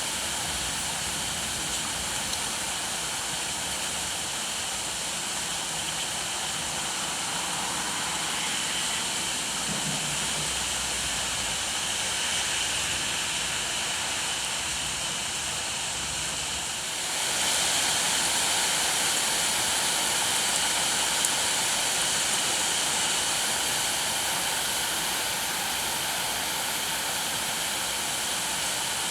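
Rain falling steadily, a continuous hiss that turns louder and brighter about seventeen seconds in.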